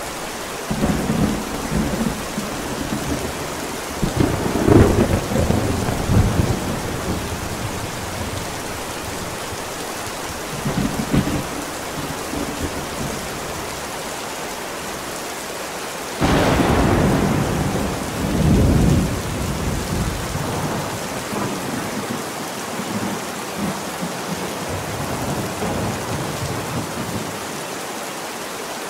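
Steady rain of a thunderstorm, mixed as 8D audio, with rolling thunder: low rumbles about a second in and again around five seconds, a short one near the middle, then a sudden thunderclap a little past halfway that rolls on for a few seconds before fading into the rain.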